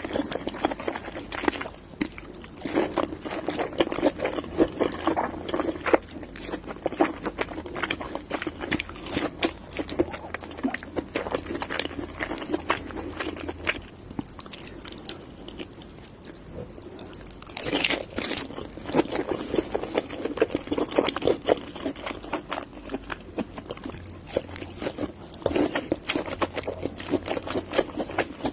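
Close-miked eating sounds of a person chewing crab meat: wet chewing and mouth smacks with many sharp little crackles, in a dense, continuous run.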